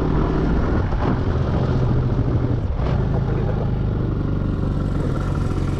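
Motorcycle engine running steadily under way, a continuous low drone without breaks.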